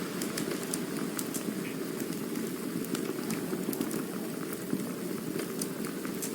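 Campfire burning: a steady low rushing sound of the flames with frequent small, sharp crackles and pops of the burning wood scattered throughout.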